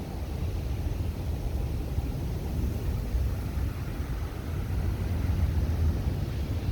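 Strong gale-force wind buffeting the microphone, a steady low rumble.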